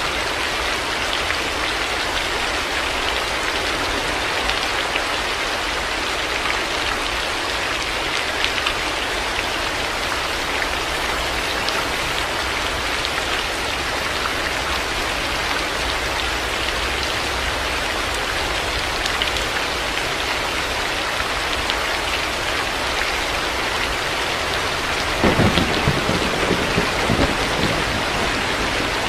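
Heavy rain falling steadily. About 25 seconds in, a short rumble of thunder rolls in and fades over a few seconds.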